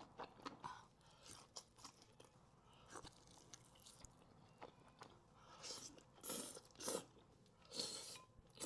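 A person eating close to the microphone: soft chewing clicks and smacks, then several louder crunchy bites in the second half, typical of crispy fried chicken wings.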